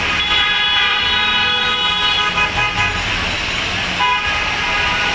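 Vehicle horn sounding: one long blast of about two and a half seconds, then a shorter one about four seconds in. Underneath runs the steady hiss of heavy rain and street traffic.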